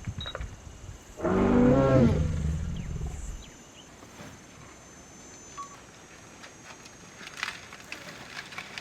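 Lion roaring once, a loud low wavering roar about two seconds long that fades out.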